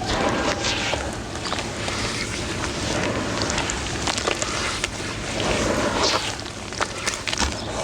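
Crumbly sand-cement pieces being crushed, giving many small crunches and crackles over a continuous gritty rustle.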